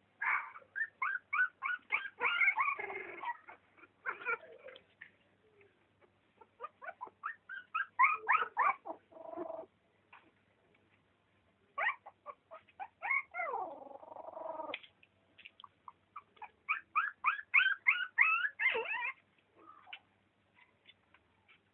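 A litter of newborn animals squeaking and crying in quick high-pitched series, several bouts of many short calls each, with brief pauses between bouts.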